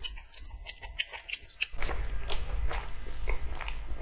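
Close-up chewing and biting of fried chicken lollipops, with irregular crunchy, wet clicks from the mouth.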